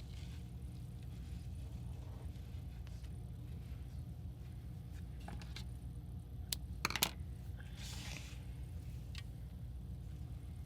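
Hands handling paper and packing materials: a few sharp clicks and small knocks about two-thirds of the way through, then a brief rustle, over a steady low hum.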